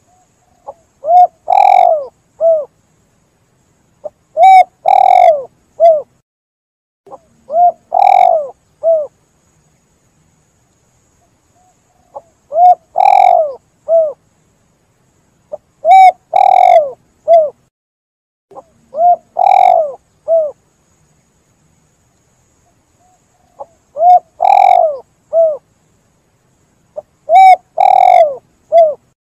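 Spotted dove (tekukur) cooing: a phrase of three or four coos, a short note, two louder ones and a short last one, repeated about every three and a half seconds, eight times in all.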